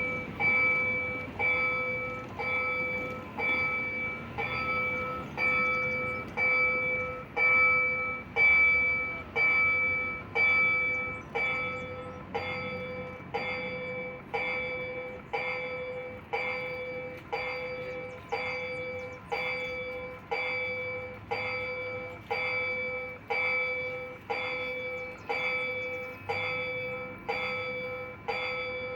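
Level-crossing warning bell ringing with evenly spaced strikes, a little over one a second, each ringing out and dying away before the next. It is loudest about eight to ten seconds in, then somewhat softer.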